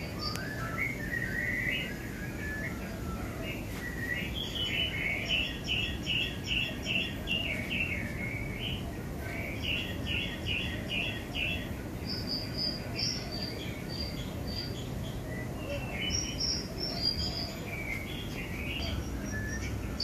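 Birds singing: runs of short, quickly repeated chirps, joined about twelve seconds in by a higher, thinner series of notes, over a steady low background noise.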